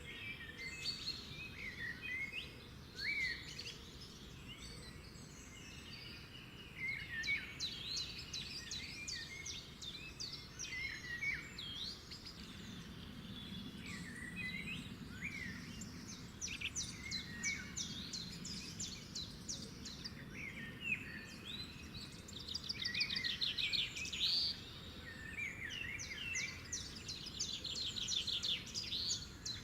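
Several songbirds singing and calling together: a busy mix of chirps, short whistles and rapid trills, with the fastest trills near the end, over a faint low background rumble.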